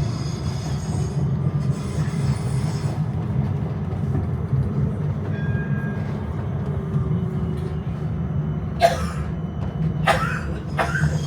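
Inside a tram cabin: the tram's steady low rumble runs throughout. A few short, sharper sounds come about nine and ten seconds in.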